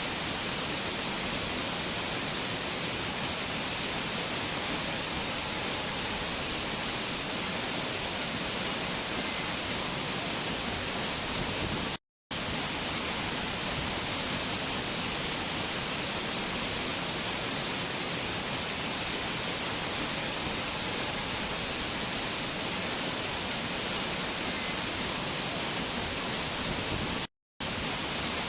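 Waterfall: a steady, even rush of falling water that cuts out completely twice for a split second, about twelve seconds in and near the end.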